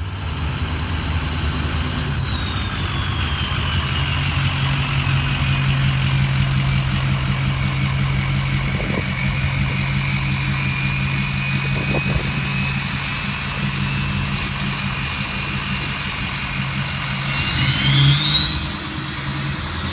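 Car engine running with a high-pitched whine over a steady low hum; the whine slowly falls in pitch, then rises sharply near the end as the engine speeds up.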